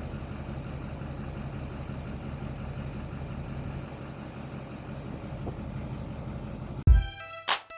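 Truck engine idling with a steady low rumble. About seven seconds in it cuts off abruptly into hip-hop music with heavy deep bass hits.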